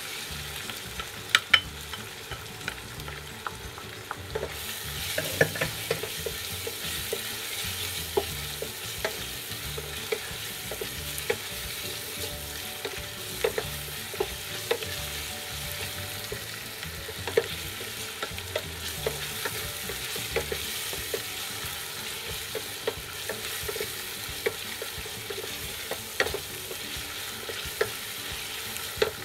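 Onions and spices frying in oil in a stainless steel pot, sizzling steadily while a wooden spatula stirs and scrapes, with frequent short knocks against the pot. A couple of loud sharp knocks come about a second and a half in, and the sizzling grows brighter about four seconds in.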